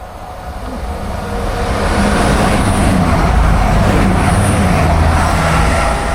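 A Class 220 Voyager diesel multiple unit passing through the station. Its engines and wheel noise build up, peak about halfway through and then begin to fade.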